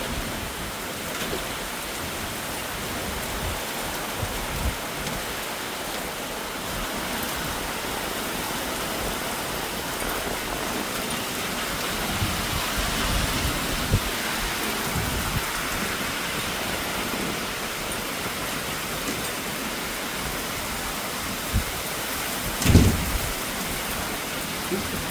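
Heavy rain pouring steadily during a thunderstorm, with a single dull low thump about three-quarters of the way through.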